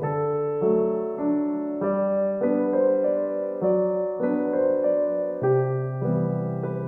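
Soft background piano music, slow sustained notes and chords changing about once a second.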